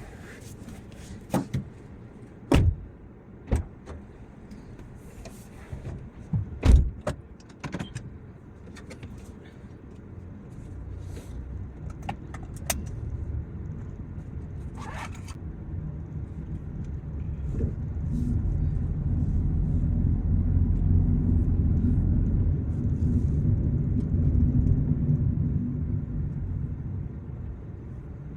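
Car driving, heard from inside: a few sharp clicks and knocks in the first several seconds, then engine and tyre rumble that grows louder and holds steady from about halfway on.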